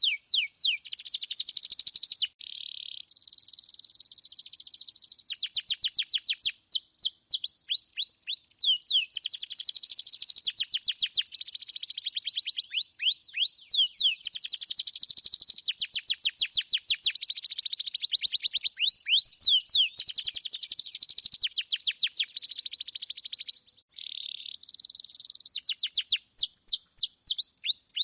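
Canary singing without a break: runs of quick rising whistled notes alternate with long, very fast rolled trills. The song dips briefly twice, about two seconds in and a few seconds before the end.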